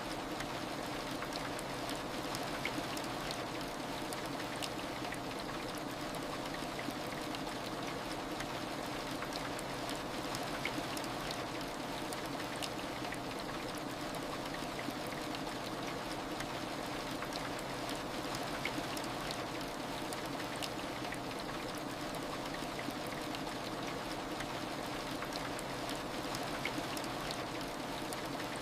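Steady heavy rain: a continuous even hiss with scattered drop ticks.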